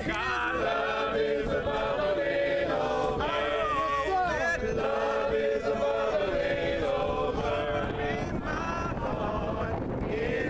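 A group of voices singing a worship song a cappella, with no instruments, the notes held long and gliding between pitches.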